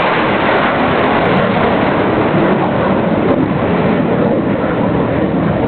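Loud, steady rushing noise of an F-16 fighter jet's engine as it flies past.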